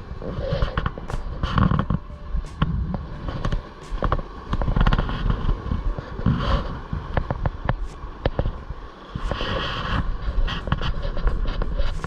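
Gusty wind rumbling hard on the microphone, with many irregular sharp clicks and scrapes of footsteps on rocks.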